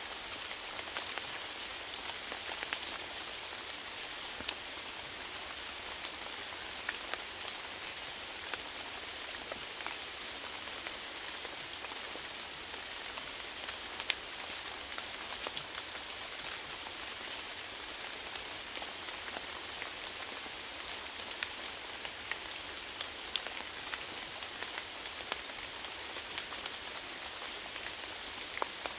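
Steady rainfall hissing on a surface, with the sharp ticks of single drops scattered through it.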